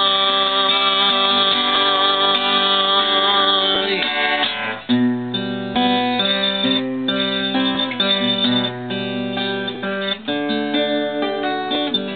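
Acoustic guitar playing an instrumental break of strummed chords, the chords changing about every half second to a second.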